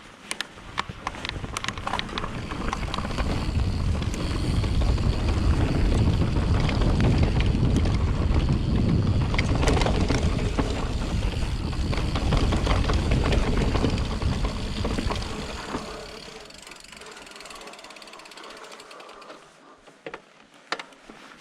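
Mountain bike ridden on a trail, heard through a fur wind muff on a chest-mounted GoPro: rapid ratchet-like ticking and rattling over a low rumble. The rumble builds over the first few seconds and stays loud, then drops about 16 seconds in, leaving quieter ticking.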